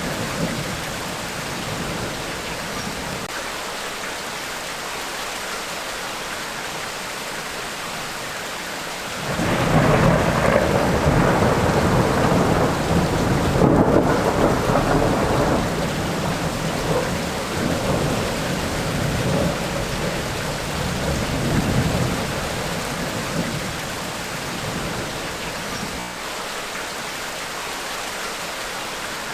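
Steady heavy rain with thunder: a loud rumble breaks in suddenly about nine seconds in, rolls on for several seconds and slowly dies away under the hiss of the rain.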